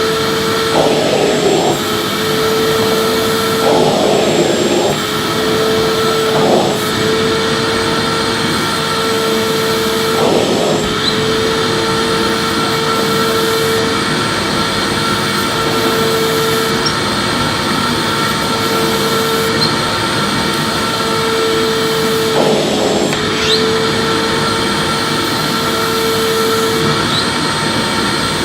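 Electric vacuum cleaner running steadily with a constant hum and whine, being pushed over the floor. Brief irregular changes in the sound every few seconds mark the nozzle sweeping.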